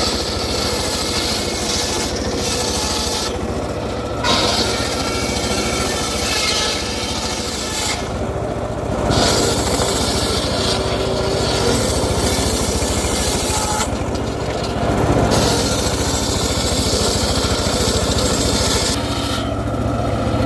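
A power saw running and cutting acacia wood, a steady loud rasping over a low motor hum. The high cutting sound breaks off briefly about every five seconds, around four, eight, fourteen and nineteen seconds in.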